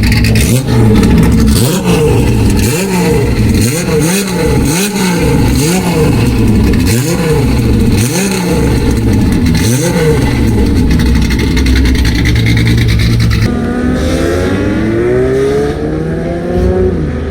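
Old Nissan Skyline with a very loud exhaust, blipped in quick revs that rise and fall about once a second. Partway through the sound changes abruptly to slower revs that climb in pitch.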